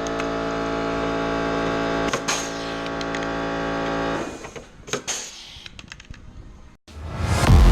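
A steady hum made of many tones, with a couple of sharp clicks, cutting off about four seconds in; after that only faint clicks, then a brief total dropout near the end.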